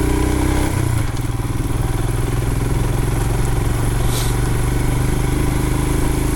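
2020 Royal Enfield Himalayan's single-cylinder engine running at low trail speed, its note changing about a second in. A brief hiss about four seconds in.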